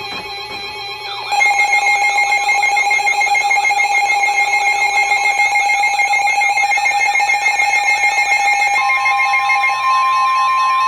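Electronic weather alert tones: several steady tones layered with a fast warbling alarm that jumps louder about a second in. About nine seconds in, a steady single-pitch alarm tone near 1 kHz joins, like the NOAA Weather Radio warning alarm that comes before a warning broadcast.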